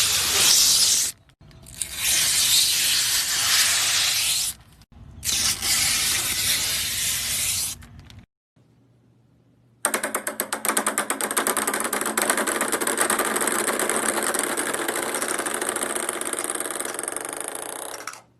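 Three loud bursts of hissing noise that start and stop abruptly, then, after a short gap, about eight seconds of a machine's very fast, even clicking rattle.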